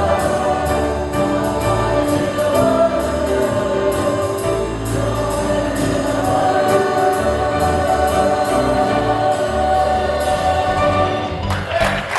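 Church choir singing with instrumental accompaniment in a jazz-style Christmas cantata, with a steady beat under sustained sung chords. A noisy wash comes in near the end.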